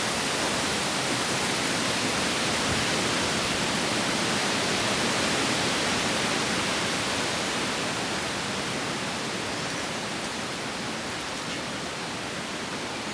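Wind blowing through forest trees, a steady hiss of rustling leaves that slowly fades over the last few seconds.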